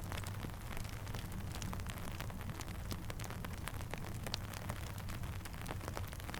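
Steady rain falling, with many sharp ticks and crackles scattered throughout over a steady low rumble.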